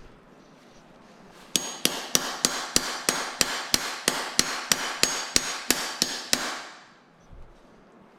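Hammer striking a metal tool (bit and ratchet) set on a seized bolt in the engine, in quick, even blows about four a second for about five seconds, starting about a second and a half in; the blows are meant to shock the stuck bolt loose.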